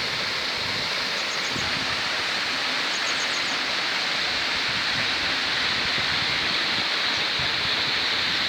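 Powerscourt Waterfall's water falling and splashing in a steady, dense rush. Two faint, brief high trills sound over it, about a second and three seconds in.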